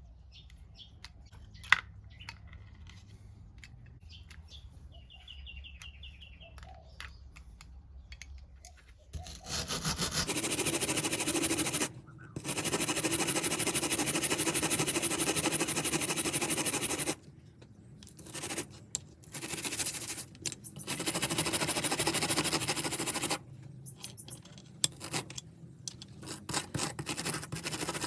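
Faint handling clicks, then a small handheld power tool running loud in long on-off bursts with a scraping, grinding sound from about nine seconds in.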